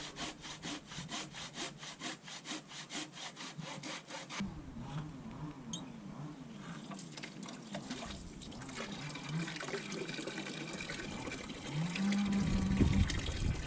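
Saw cutting driftwood for firewood in quick, even strokes, about five a second, stopping abruptly about four seconds in. A softer, different sound follows, and a louder rushing noise starts near the end.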